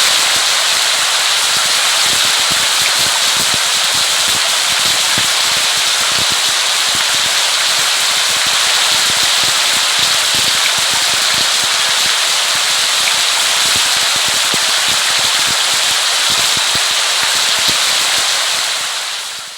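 Steady heavy rain with a dense patter of drops ticking on a surface, fading out right at the end.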